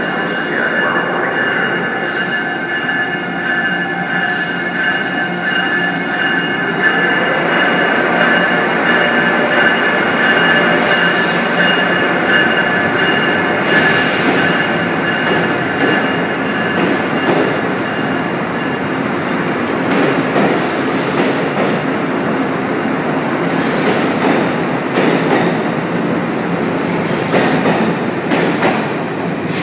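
Amtrak electric locomotive and its passenger cars rolling past at a station platform. The wheels on the rails make a steady loud rumble, with high-pitched squealing tones held throughout. From about a third of the way in there are more and more short clicks and knocks as the cars go by.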